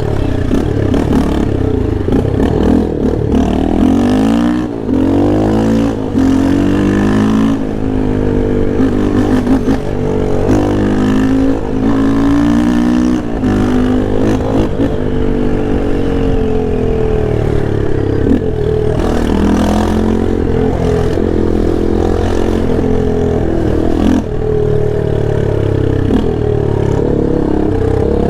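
Yamaha Lander 250's single-cylinder four-stroke engine under hard riding, revving up and dropping back again and again as the bike accelerates and shifts through the gears.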